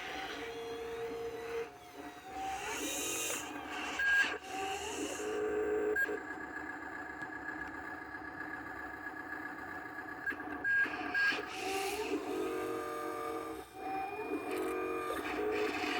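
Dump truck running, heard from inside the cab, with several steady whining tones that shift in pitch now and then.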